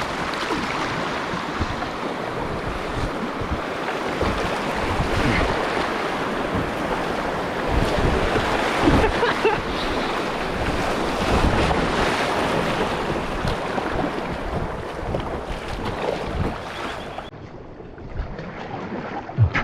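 Fast river water rushing and splashing around a kayak, with wind buffeting the microphone. The steady rush cuts off abruptly near the end, leaving quieter water.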